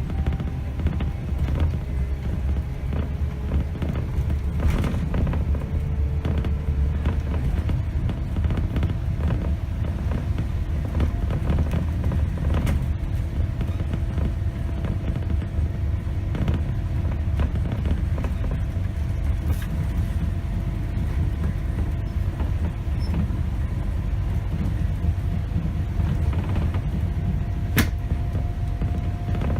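Scania K270 city bus heard from the driver's seat: steady low diesel engine and road rumble, with a faint whine that slowly shifts in pitch as the bus changes speed. Scattered creaks and rattles from the bus body and fittings, with one sharp click near the end.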